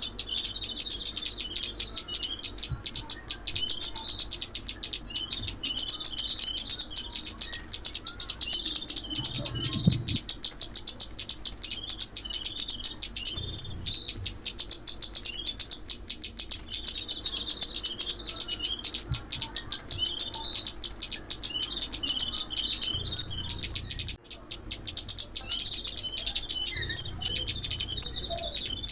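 Sunbird song played as a trapping lure: rapid, high-pitched chirping and twittering phrases repeated almost without pause. A thin, steady high tone runs under the middle part.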